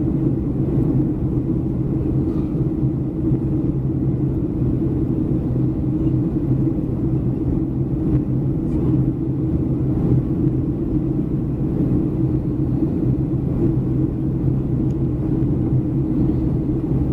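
Cabin noise of a Boeing 737-300 airliner: the steady low drone of its CFM56 engines and airflow, with an even hum that does not change.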